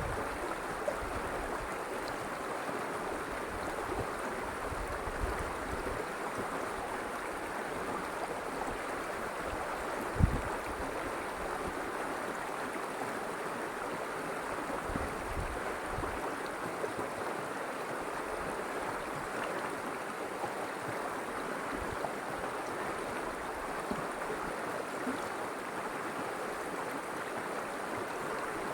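River water flowing steadily, an even rushing with no breaks. A few brief low thumps cut through it, the loudest about ten seconds in.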